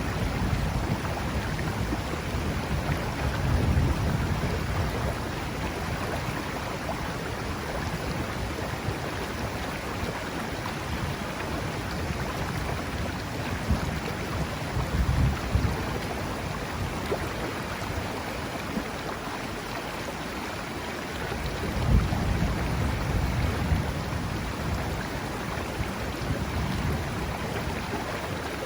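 Steady rain hissing over a rushing river, with low rolls of thunder swelling three times.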